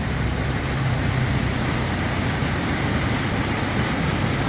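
Steady rush of spring-fed river water pouring out from under rock and running hard, with a low steady hum beneath it.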